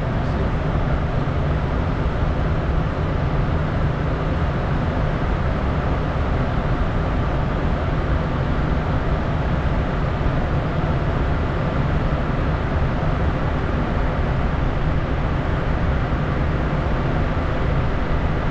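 Steady in-cabin noise of a Bombardier Challenger 350 business jet in the climb: a constant low rumble from airflow and its two Honeywell HTF7350 turbofan engines, with a hiss above it, holding level throughout.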